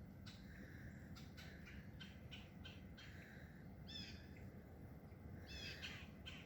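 Faint small birds calling: short, high chirps, a run of them in the first few seconds, another about four seconds in and a quick cluster near the end, over a low steady outdoor rumble.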